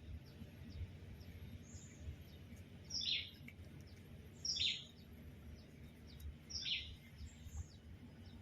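A parrot calling three times, each short call falling in pitch, roughly a second and a half to two seconds apart, with fainter high chirps from other birds in between.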